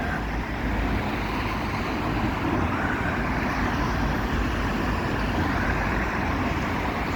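Steady road traffic noise, with wind buffeting the phone's microphone in a low, fluttering rumble.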